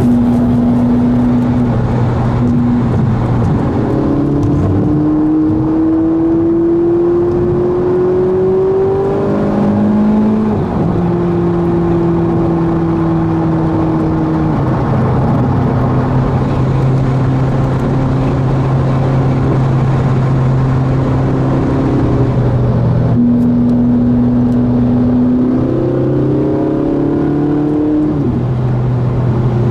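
Ferrari 458 Italia's V8 heard from inside the cabin at motorway speed, over steady road noise. Its pitch climbs slowly under acceleration, drops at a gear change about ten seconds in, and climbs again near the end.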